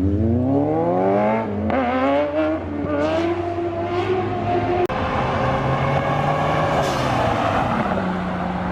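A car engine accelerating hard through the gears: its pitch climbs steeply, drops at each of several shifts, then holds a steadier note that falls away near the end.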